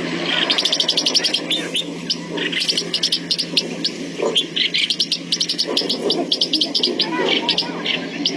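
A small bird chirping in rapid runs of short, high notes, several bursts of quick repeated chirps one after another.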